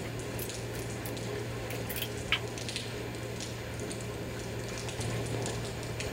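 Steady watery noise with scattered small drips and ticks over a constant low hum, with one sharper click about two seconds in.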